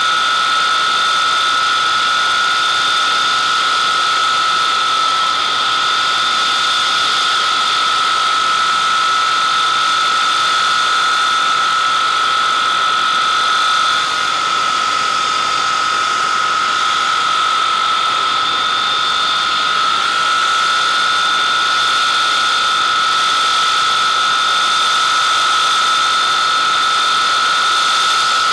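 Avro Vulcan XM655's Rolls-Royce Olympus turbojet engines running on the ground, a loud steady jet noise with a constant high-pitched whine.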